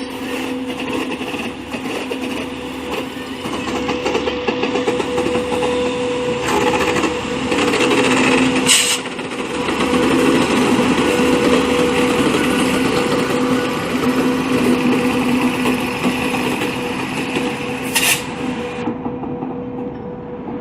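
An electric-hauled passenger train running past at close range: a continuous rolling rumble with rapid wheel-on-rail clatter over a steady hum. Two brief sharp sounds stand out, about nine seconds in and again near the end.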